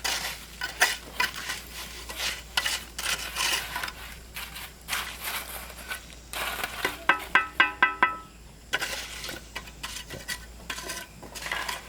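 Repeated clinking and scraping of utensils against pots and dishes, as in stirring and cooking. About seven seconds in there is a brief run of pulsed ringing tones, like a short bit of tune.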